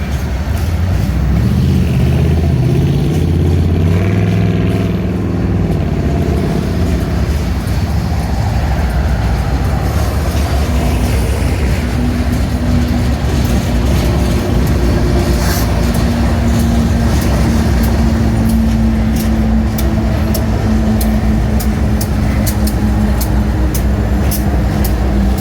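Union Pacific coal train rolling past: a steady heavy rumble with a held tone, and from about the middle on, regular clicks of the wheels over rail joints.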